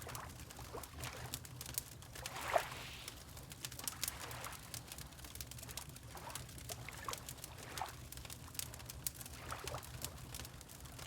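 Water lapping in small gurgling splashes, a louder one about two and a half seconds in, under the scattered pops and crackles of a wood fire in a fireplace.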